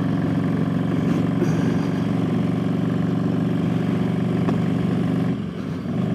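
Motorcycle engine running under load as the bike gets up to highway speed, heard from the rider's own microphone with wind noise, with a brief drop near the end where a gear is shifted.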